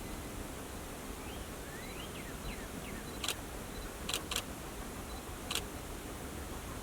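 Four sharp clicks of a camera shutter, two of them in quick succession, over a steady outdoor hiss with a few faint bird chirps.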